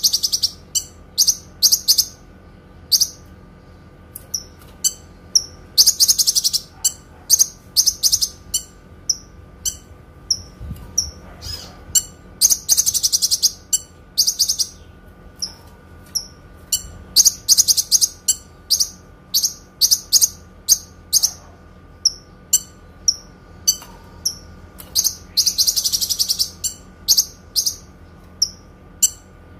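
Kinoi bird singing: sharp, very high-pitched chirps broken every few seconds by long, rapid trills of clear notes.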